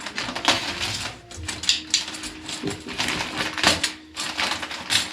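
Irregular clicking, crackling and rattling of packaging being handled and opened, with light clinks of small hard fittings.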